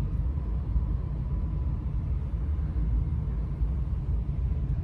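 Strong wind gusting around the van and over the microphone, a low uneven rumble.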